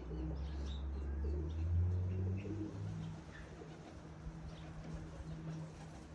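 Pigeons cooing, with a low rumble through the first half.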